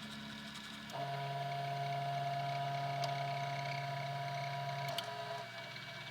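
Easythreed X2 3D printer's stepper motors running through a print, a steady whine whose pitch shifts about a second in and again near five seconds as the moves change, with a few faint clicks.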